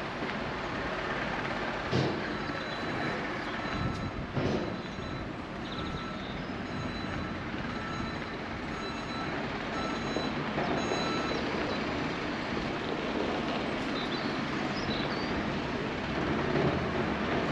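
Train noise at a railway station: a steady rumble with a few knocks. A repeating short electronic beep sounds a little more than once a second from about two seconds in until about eleven seconds.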